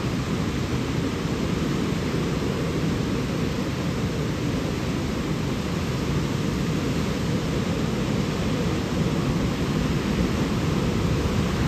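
Steady rushing of flowing water, a constant noise with a strong low rumble.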